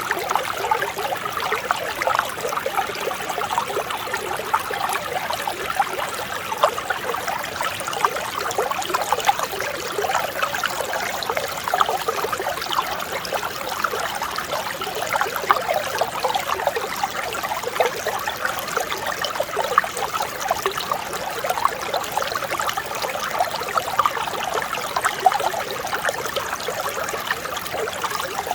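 Mountain stream flowing steadily over rocks, a continuous babbling and trickling of clear water.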